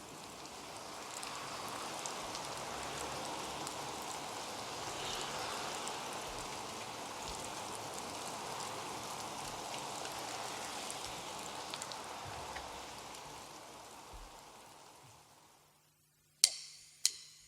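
Steady hiss like falling rain that fades out about fourteen seconds in. After a short silence come two sharp clicks near the end, drumsticks counting in the band.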